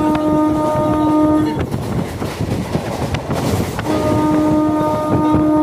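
A passing train sounding its horn: a steady blast of several tones that breaks off about one and a half seconds in, then a second blast about four seconds in. Throughout, the rumble and clatter of wheels on the rails.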